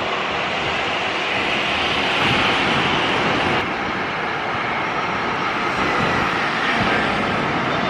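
Passenger jet's engines heard as a loud, steady rushing noise that dulls slightly about halfway through.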